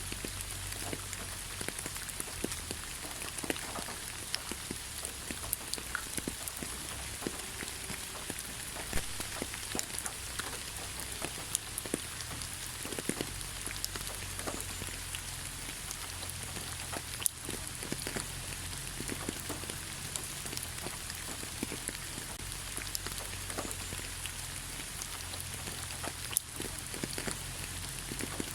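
Light rain falling on leaves: a steady hiss with many scattered drop taps.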